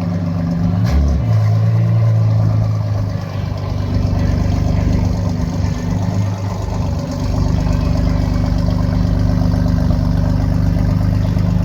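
Car engine idling with a steady low rumble, with a brief click about a second in.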